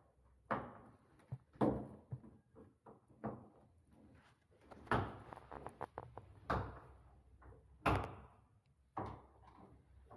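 Door hardware being worked: the handle and latch of a metal entrance door clacking, and the door knocking and shutting, in a string of about seven sharp strikes with smaller clicks between them.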